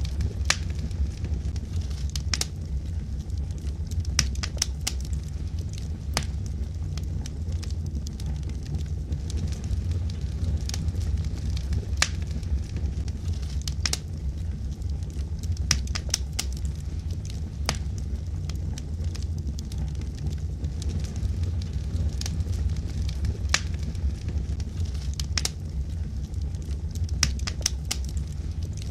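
Wood fire burning in a fireplace: a steady low rumble of flames with sharp, irregular crackles and pops from the burning logs every second or two.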